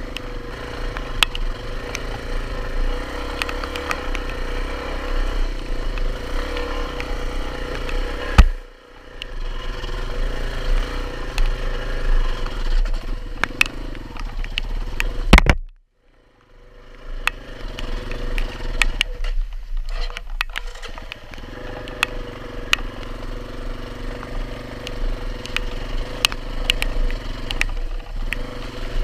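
Dual-sport motorcycle engine running under load while riding through mud, with clattering and ticking from the bike. Two sharp, loud knocks come about eight seconds in and again about halfway through, and the sound briefly drops out after the second one.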